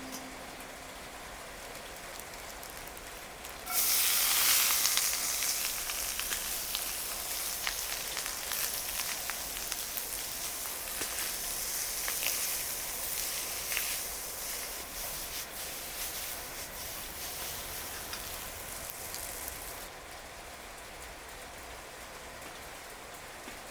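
Food sizzling loudly in a hot skillet over a wood fire, a dense crackling hiss that starts abruptly about four seconds in and stops abruptly about 20 seconds in. A fainter steady hiss sits underneath throughout.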